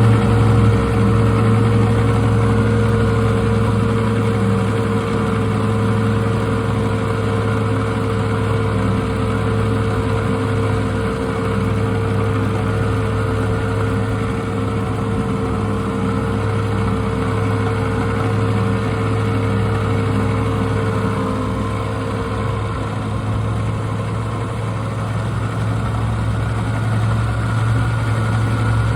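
A pair of 1950s Mercury Mark 6 two-stroke outboard motors running steadily together at low speed. A higher steady tone in the sound fades out about two-thirds of the way through.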